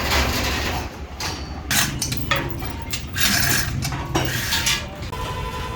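Metal parts and tools being worked in a truck-repair workshop: about four short bursts of mechanical metal noise over a low steady hum.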